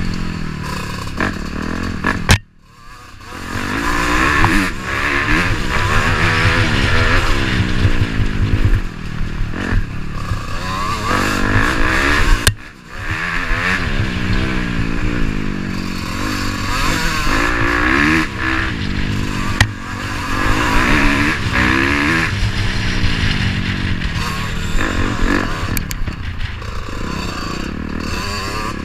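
Dirt bike engine being ridden hard, revving up and falling back again and again as the rider works the throttle and gears. The sound cuts out sharply twice, about two and a half seconds in and again around the middle.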